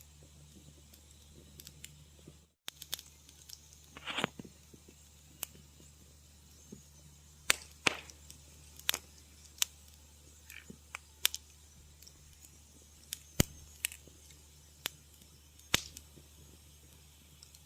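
Wood fire crackling: sharp pops and snaps at irregular intervals over a low steady hum. The sound cuts out completely for a moment about two and a half seconds in.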